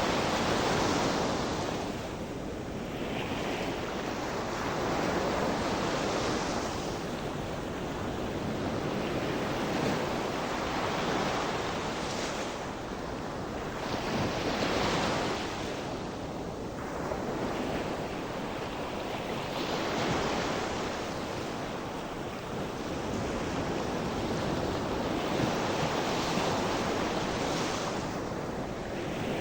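Sea surf: waves breaking and washing on the shore in a continuous rush that swells and eases every few seconds, with some wind noise on the microphone.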